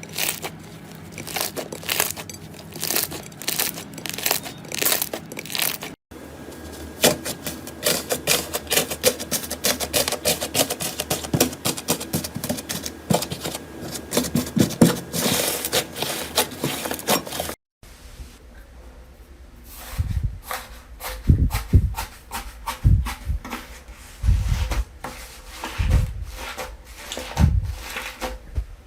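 Slime being squished, poked and pulled by hand: a dense run of small crackles, clicks and sticky pops, broken by two abrupt cuts. The last part has several dull low thumps among the clicks.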